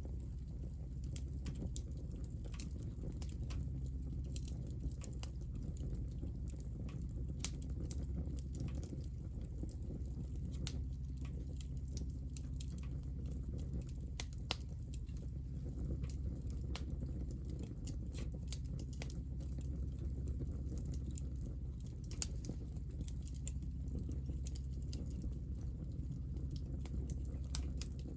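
Hinoki (Japanese cypress) scrap wood burning, with scattered sharp crackles and pops throughout over a steady low rumble.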